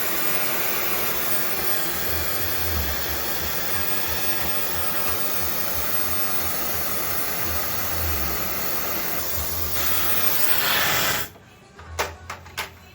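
Steady rushing of air from a small electric blower, cutting off suddenly about eleven seconds in, followed by a few light clicks.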